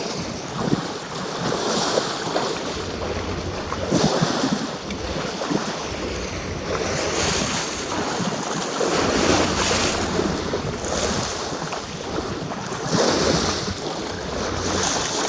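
Sea water rushing and splashing past a moving boat's hull in surges, with wind buffeting the microphone and a steady low hum underneath.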